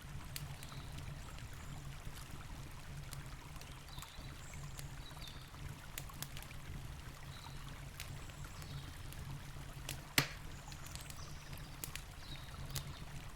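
Campfire crackling, with scattered pops and one louder pop about ten seconds in, over the steady low rush of a river.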